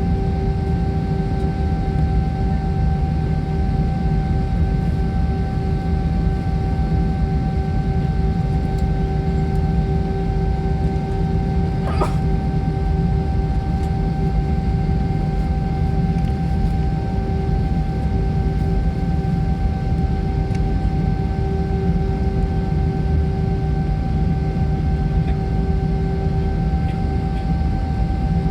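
Airliner cabin noise on the ground before takeoff: a steady low rumble from the jet engines and air-conditioning, with several constant whining tones over it. A single short click about twelve seconds in.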